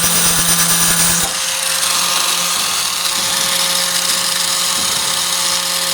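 Electric 4-1/2 in. angle grinder running with a steady motor hum. The disc is working against the tailgate's sheet metal with a bright, hissing grind until about a second in, then the grinder spins on with less grinding noise.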